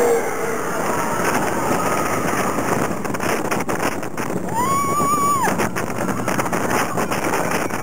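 Roller coaster train rattling and clattering along the track with wind noise on the microphone. About five seconds in, a rider lets out one high held scream lasting about a second.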